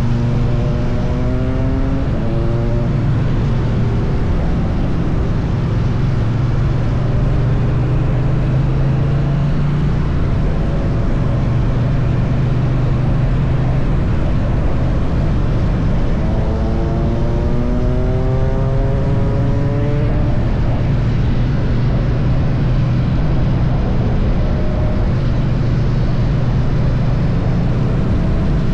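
Triumph Bonneville T100's parallel-twin engine running steadily at highway cruise under a constant rush of wind noise. Twice the engine note climbs for a few seconds and then drops back, once near the start and again a little past halfway.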